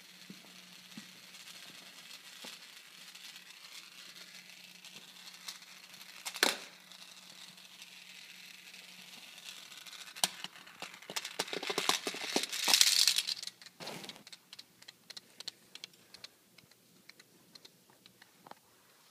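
Beyblade spinning top whirring on a plastic surface, with a sharp clack about six seconds in and a loud clattering rattle from about ten to thirteen seconds. After that come scattered light ticks as the top slows.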